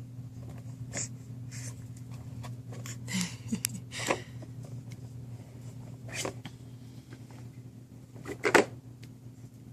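A baby making short breathy huffs and snorts, five or so spaced a second or two apart, the loudest near the end, over a steady low hum.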